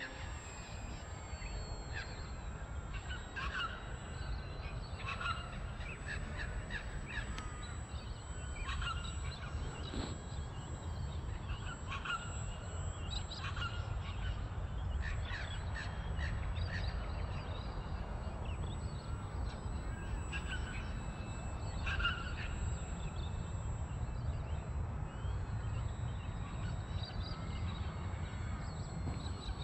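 Birds calling in short, scattered squawks over a steady low rumble.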